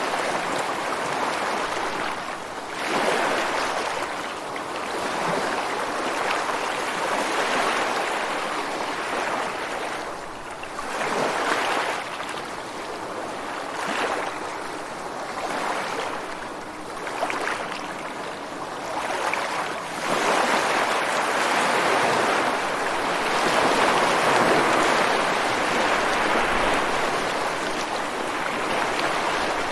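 Ocean surf breaking and washing ashore, a constant rushing wash that swells into louder surges every few seconds.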